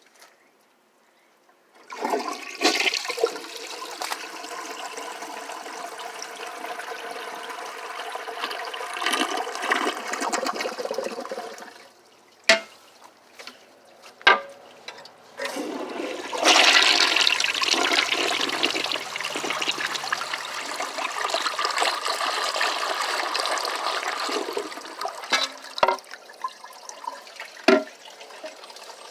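Two toilets flushed one after another: a rushing flush starts about two seconds in and dies away after about ten seconds. After a few sharp clicks, a second, louder flush runs for about nine seconds and settles into a quieter trickle of the tank refilling.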